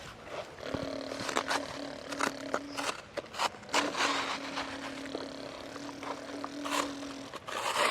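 A truck's motor hums steadily at one pitch, dropping out briefly several times, over repeated scraping and clattering.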